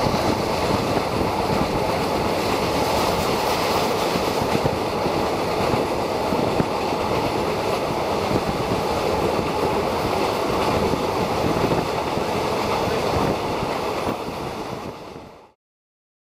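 Passenger train running along the track, a steady rushing rumble heard from inside the carriage, fading out near the end to silence.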